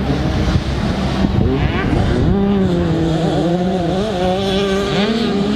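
Small 65cc two-stroke motocross bike engines revving on track, the pitch rising and falling as the riders work the throttle.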